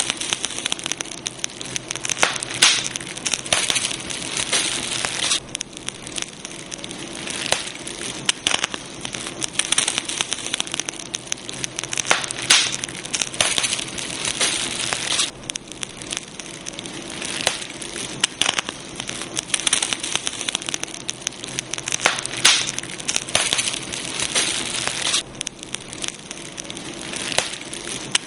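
Campfire burning: a dense stream of sharp crackles and pops over a steady hiss.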